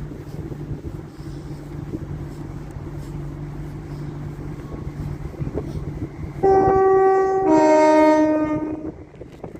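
Southern Class 377 Electrostar electric multiple unit running in with a steady low rumble, then sounding its two-tone horn about six and a half seconds in: a higher note, then a lower one, together lasting about two and a half seconds.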